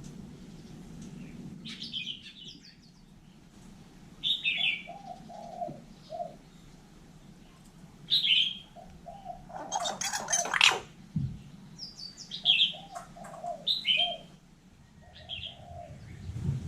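Hill myna calling with short falling whistled chirps, mixed with runs of low cooing notes and a harsh, scratchy burst about ten seconds in.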